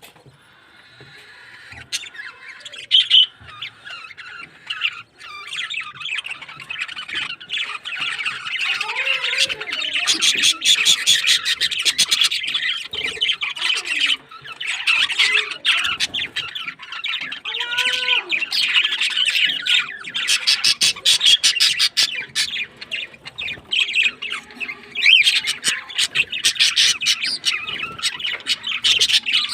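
Many small birds chirping and twittering at once in a dense, rapid chatter that thickens after the first few seconds, with a few lower calls about a third and two thirds of the way through.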